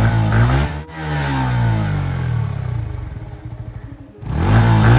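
Yamaha R15 V4 (R15M) 155 cc single-cylinder engine revved at a standstill. The exhaust note rises and falls in repeated throttle blips, with a sudden brief drop near one second and again around four seconds in.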